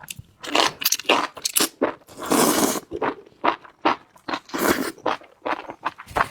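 A person biting and chewing crunchy food, a rapid run of crunches with one longer crunching stretch a little over two seconds in.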